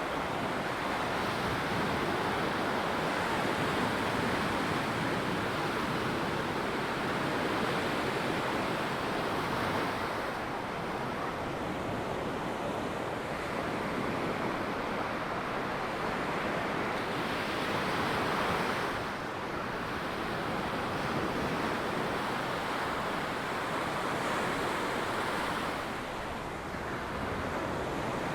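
Ocean surf washing onto a sandy beach: a continuous rush of breaking waves that swells and eases, dipping briefly about ten, nineteen and twenty-six seconds in.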